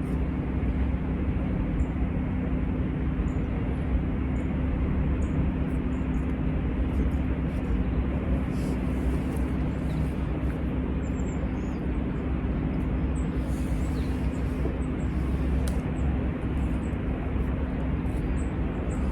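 Steady outdoor background noise with a low, constant hum and drone, unchanging throughout, with a few faint small clicks.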